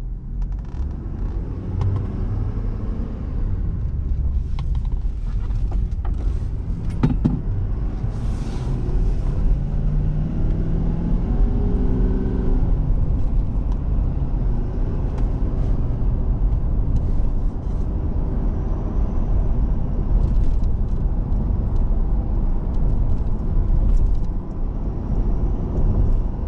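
Cabin sound of a 2019 Ford F250 Super Duty on the move: the 6.7-litre Power Stroke V8 turbo diesel and tyres make a steady low rumble, with a few short clicks and knocks from the cab over bumps.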